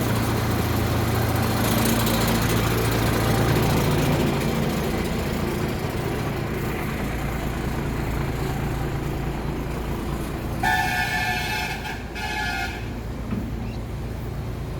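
Tata LPT2515 truck's diesel engine running steadily, then near the end two horn blasts, a long one followed by a short one.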